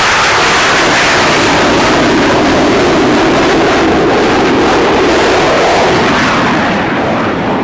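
Jet aircraft flying a low pass, a loud continuous roar that eases off a little near the end.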